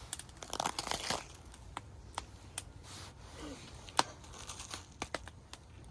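Crinkling and tearing of a wrapper, densest around the first second, followed by scattered sharp clicks and snaps.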